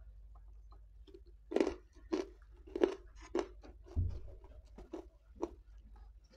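Close-miked chewing of a mouthful of food, with sharp crunches about twice a second that start about a second and a half in and grow weaker toward the end.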